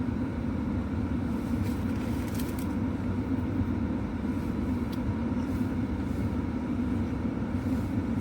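A car running at idle, a steady low hum heard inside the cabin, with a few faint clicks.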